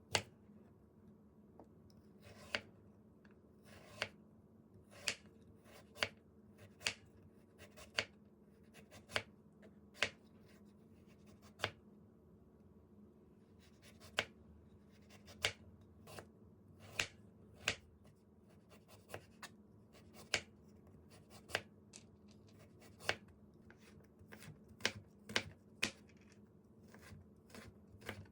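Kitchen knife cutting vegetables on a cutting board in slow, single strokes: sharp separate knocks about one a second, coming a little faster near the end, over a low steady hum.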